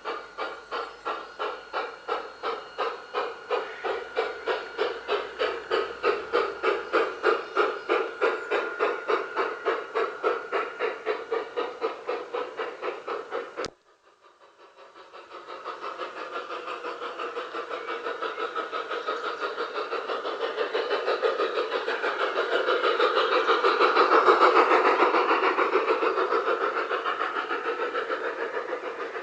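Electronic steam-chuff sound from a G-scale LGB model steam locomotive's onboard sound unit: a steady chuffing of about four beats a second. It cuts off abruptly about 14 seconds in, then resumes, growing louder to a peak about 24 seconds in and easing off as the loco passes.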